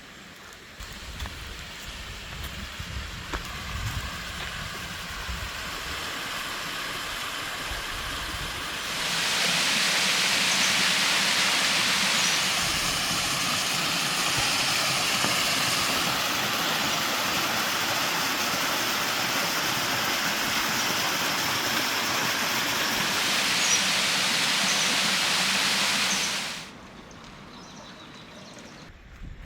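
Rushing water of a small valley stream and waterfall: a steady wash of water noise that grows much louder suddenly about nine seconds in and cuts off abruptly near the end.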